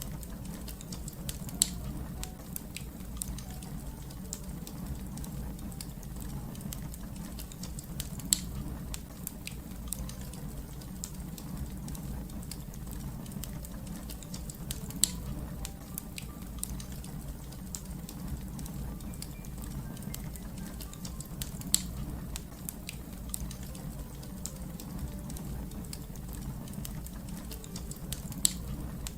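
Fire crackling: many small sharp clicks over a steady low rumble, with a louder pop about every seven seconds.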